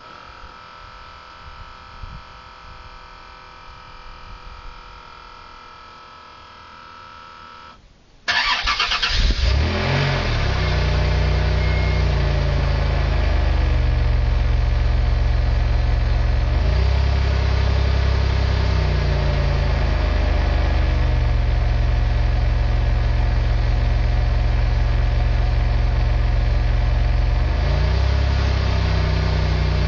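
Chrysler Voyager's 3.3 V6 on a partial ('half pipe') exhaust, starting abruptly about eight seconds in after a faint steady hum, then running loud and being revved up and back down several times.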